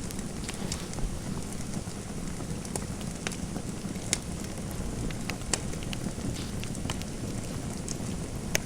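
Fireplace fire crackling: irregular sharp pops and snaps over a steady low rumble, with a louder pop near the end.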